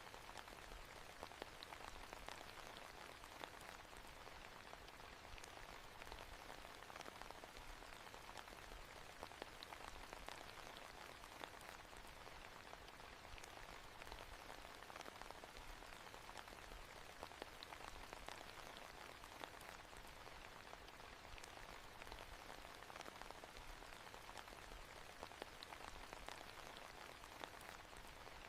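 Faint, steady rain ambience: an even hiss of rainfall with many small scattered drop ticks, unchanging throughout.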